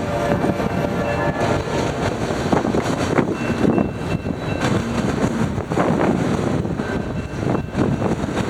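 Train passing close by: a steady rumble of wheels on the rails with irregular metallic clanks.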